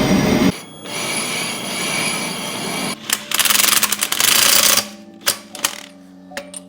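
Sped-up workshop fabrication noise: a long hiss for about three seconds, then several short noisy bursts and quick clattering knocks.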